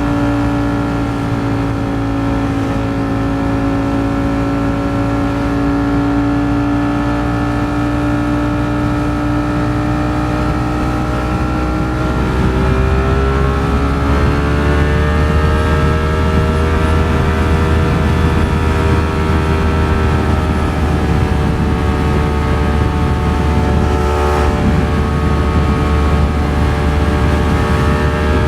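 Ducati Streetfighter V4 S's V4 engine running at a steady cruise with wind rush on the microphone. About halfway through, the engine pitch rises gently and the wind grows louder as the bike speeds up, then both hold steady.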